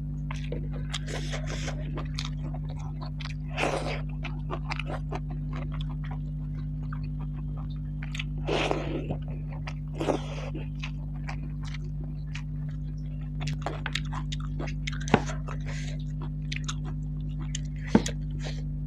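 Close-miked chewing and mouth sounds of a person eating buffalo curry and rice by hand, many small wet clicks and smacks, over a steady low hum. Two sharp clicks stand out in the second half.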